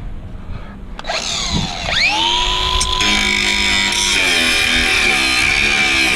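Angle grinder switched on about a second in, its whine rising to full speed and then running steady; from about four seconds in its pitch wavers and dips.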